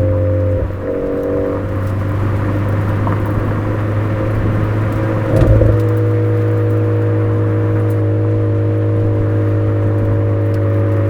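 Suzuki Swift Sport ZC33S's 1.4-litre turbocharged four-cylinder running through a Fujitsubo aftermarket exhaust, droning steadily at a constant engine speed on a downhill run. The note dips briefly about half a second in and swells for a moment a little past five seconds.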